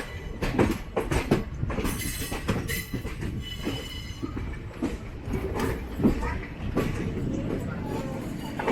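Passenger train coaches rolling slowly over points and rail joints, with an irregular clatter of wheels. A high-pitched squeal of wheel flanges on curved track comes in about two seconds in and lasts a couple of seconds.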